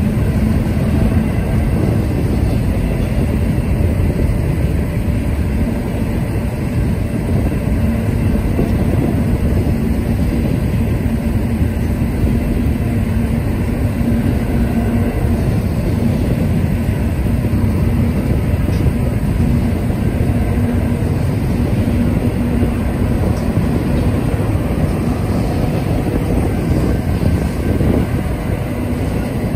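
Freight train cars rolling past: double-stack intermodal container cars, then enclosed autorack cars. Their steel wheels make a steady rumble on the rails.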